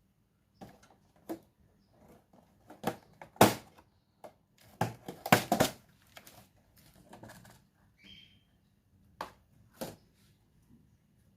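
Irregular sharp clicks and taps, thickest and loudest in the middle, with one short high chirp about eight seconds in.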